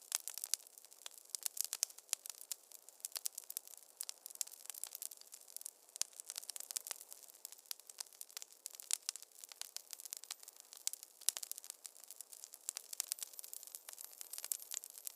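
Wood fire in a fireplace crackling: a dense, irregular stream of sharp pops and snaps over a faint hiss.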